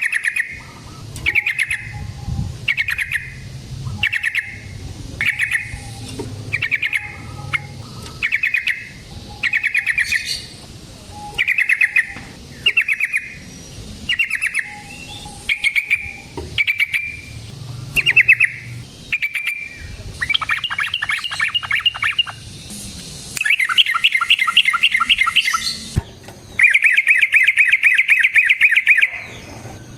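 Yellow-vented bulbul calling: short bubbly notes repeated about once a second, then, from about two-thirds of the way in, long fast chattering rolls.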